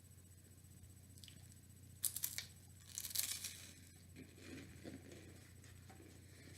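Two short bursts of tearing, like a paper or plastic wrapper being torn open, about two and three seconds in, followed by softer handling sounds.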